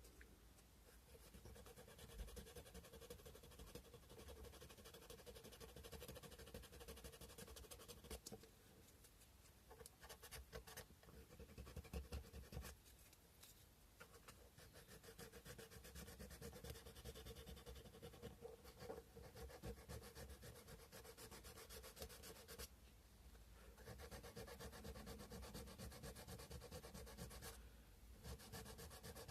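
Sandpaper rubbed by hand over a cow-bone carving: faint, quick back-and-forth sanding strokes, stopping briefly a few times.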